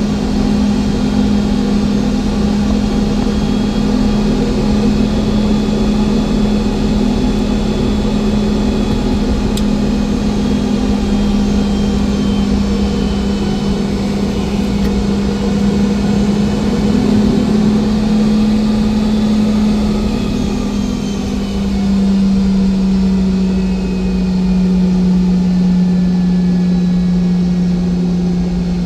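Boeing 717-200's rear-mounted Rolls-Royce BR715 engines heard inside the cabin: a steady hum with a strong low tone that drops slightly in pitch about two-thirds of the way through.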